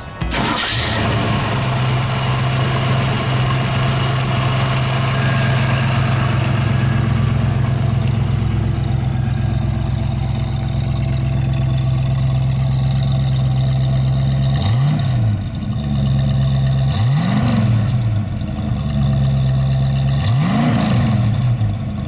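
1965 Ford Mustang engine idling steadily, then blipped three times in the second half, each rev rising and falling back to idle.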